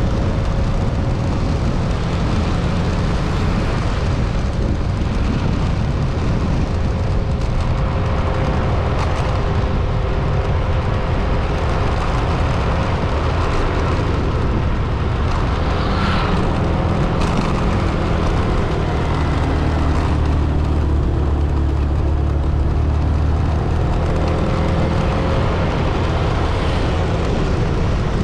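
A road vehicle driving: a steady low rumble of engine and road noise, with a faint steady engine hum above it.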